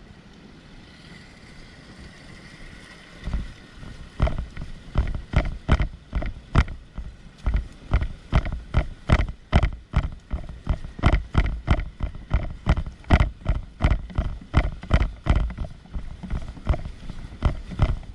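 A run of regular thumps, about two to three a second, starting about three seconds in after a faint steady background.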